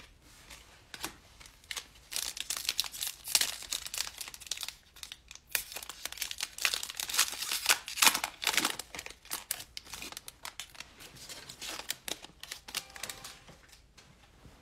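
Trading-card pack wrapper being torn open and crinkled by hand, with dense crackling for most of the stretch that fades out near the end.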